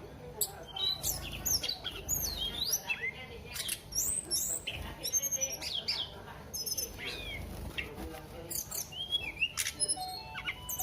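Tledekan songbird singing a busy, varied song of quick chirps and whistled notes that sweep up and down in pitch, with short trills in between.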